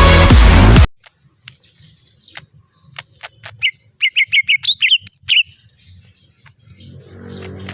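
Electronic dance music cuts off about a second in, then a cucak ijo (green leafbird) calls: scattered sharp chips, followed by a quick run of loud, rising whistled notes. A low hum builds near the end.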